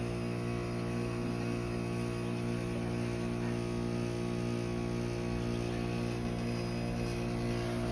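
Trane XR13 heat pump outdoor unit humming steadily in defrost mode, a constant electrical-sounding hum with no change in pitch.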